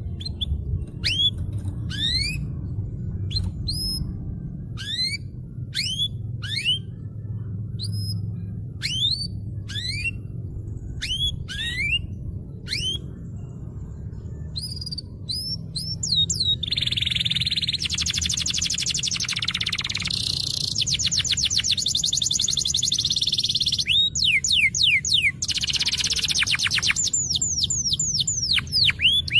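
Domestic canary singing: single rising chirps, about one or two a second, then from about halfway a dense run of fast trills and rolls. A low steady hum runs underneath.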